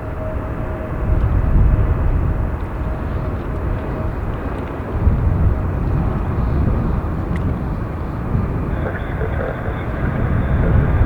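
Jet airliner engines running on the runway under heavy wind buffeting on the microphone, a low uneven rumble; a higher engine whine comes in about nine seconds in.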